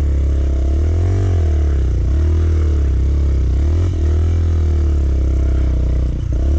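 Dirt bike engine running and revving up and down repeatedly, on a bike whose clutch has just gone: the rider says the clutch plate is worn out.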